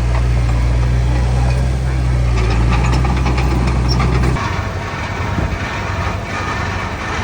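Heavy diesel engine of earthmoving machinery running with a steady deep drone; about four seconds in the steady drone cuts off abruptly and a rougher, less even engine sound carries on.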